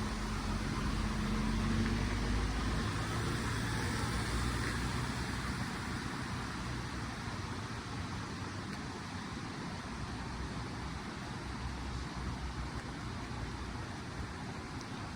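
Steady rushing water noise, with the low engine hum of a passing vehicle in the first half that fades away after several seconds.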